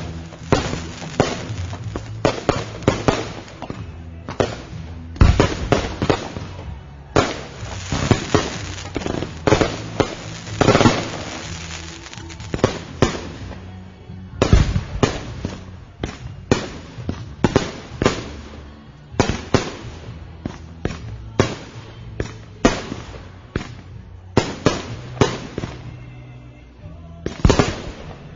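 Fireworks going off in a long, near-continuous string of sharp bangs and crackles, densest in the first half, thinning out near the end before one last loud volley.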